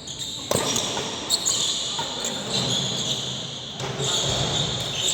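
Badminton rally: a few sharp racket hits on the shuttlecock, over a steady background of crowd noise.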